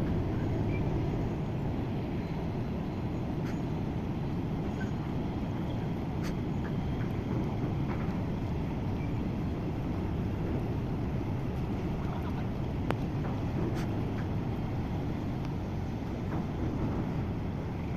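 Steady low engine rumble from a berthing container ship, with a few faint clicks and knocks over it.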